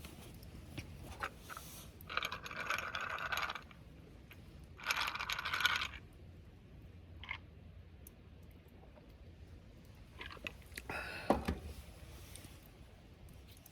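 Metallic clinking and scraping of hard items being handled, in three bursts of about a second each and a few small ticks.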